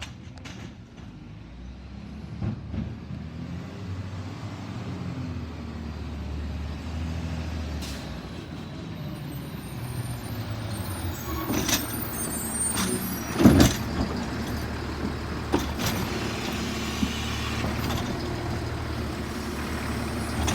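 Autocar Xpeditor garbage truck's diesel engine running and slowly growing louder. Sharp clanks come near the middle, with one loud bang about two-thirds of the way through, and there is a high hiss of air around the middle.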